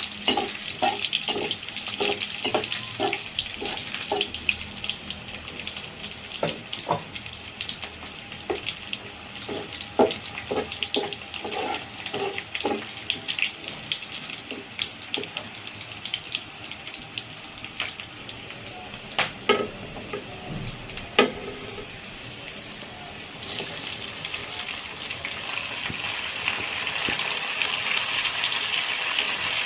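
Kitchen work sounds: a quick run of even knocks of a utensil at first, then scattered clinks and taps over a steady hiss. The hiss of running water or frying swells toward the end.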